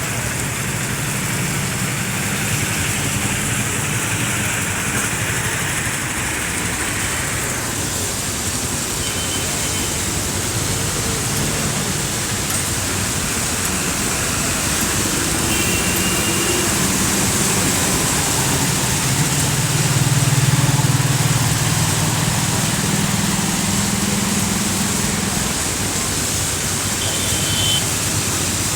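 Steady rain hiss over passing highway traffic, vehicle engines running by, with the loudest pass about twenty seconds in.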